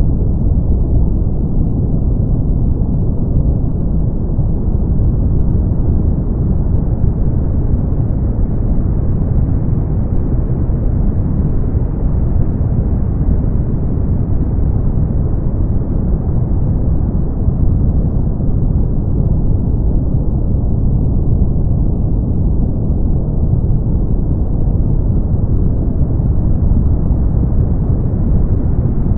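Steady brown noise: a deep, even rumbling hiss with its energy weighted to the low end, unchanging throughout.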